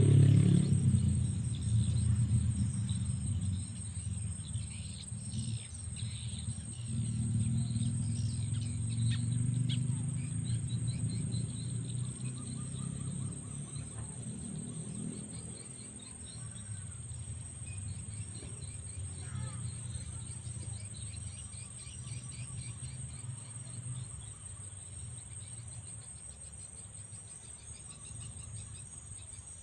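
Steady high-pitched insect trill, typical of crickets, with scattered faint bird chirps over it. Under it runs a low rumble that is loudest at the start and fades away over the first fifteen seconds or so.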